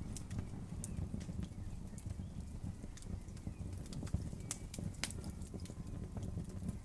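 Campfire burning with scattered sharp crackles and pops over a steady low rumble, the loudest pops about four and five seconds in.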